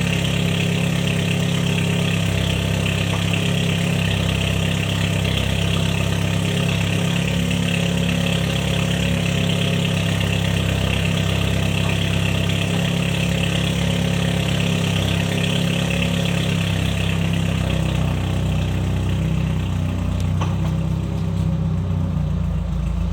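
BMW 520i F10 engine idling steadily shortly after a cold start, its note shifting slightly near the end.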